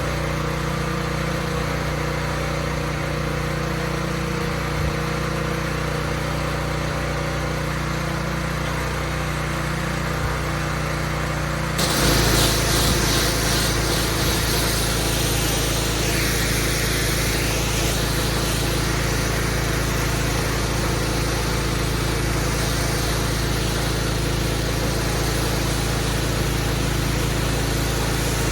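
Engine-driven pressure washer running steadily. About twelve seconds in, a loud spraying hiss suddenly joins the engine and the whole sound gets louder, as the water jet comes on against the paving.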